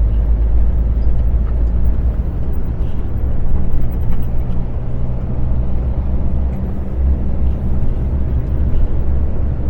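Articulated truck's diesel engine running steadily on the road, a continuous low drone with a rumble beneath it.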